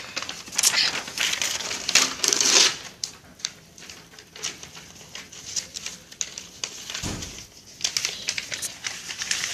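Paper being crumpled by hand: dense, crackly rustling for the first three seconds, then sparser crinkles and clicks.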